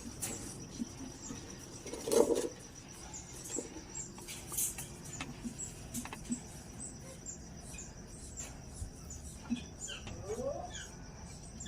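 Caged birds giving scattered short, high chirps, with one louder brief call or knock about two seconds in.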